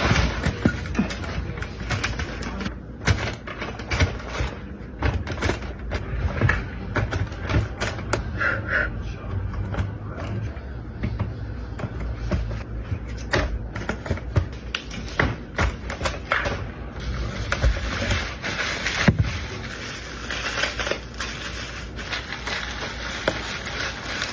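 Irregular clicks, snaps and rustling come one after another, with a low rumble underneath.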